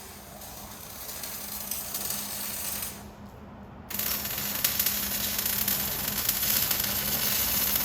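Arc welding on exhaust pipe: a crackling sizzle in two runs, a short one and then a louder, longer one starting about four seconds in, as new straight pipe is welded in where the mufflers were cut out.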